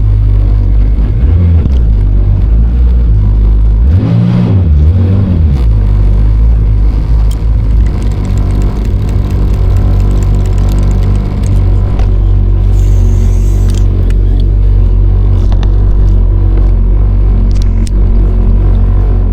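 Kawasaki jet ski engine running under way. Its pitch dips and rises twice in the first few seconds as the throttle changes, then it holds a steady drone, with a brief hiss a little past the middle.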